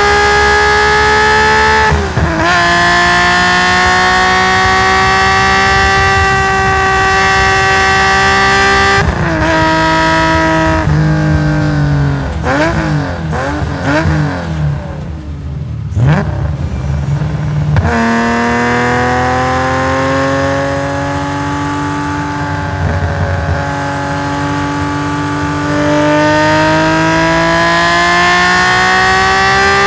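Nissan S20 twin-cam straight-six in a race-tuned Skyline GT-R at high revs under full throttle, with an upshift about two seconds in. About nine seconds in, the revs drop through a run of quick downshifts with throttle blips, bottom out, and then climb again as the car accelerates, with another shift near the end.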